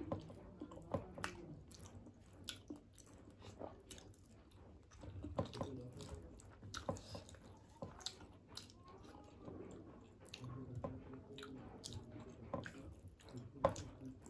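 Close-up eating sounds: chewing of soft khichuri and egg curry, with frequent short wet smacks and clicks from the mouth and from fingers mixing the food on a steel plate, the loudest click near the end.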